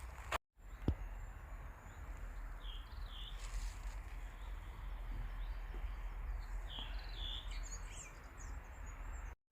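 Forest ambience: a steady low rumble under a few short, high bird chirps in two small groups, about three seconds in and again about seven seconds in. A single sharp click sounds about a second in.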